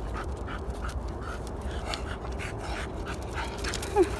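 A dog panting rapidly, about three breaths a second, with a short high whimper about four seconds in.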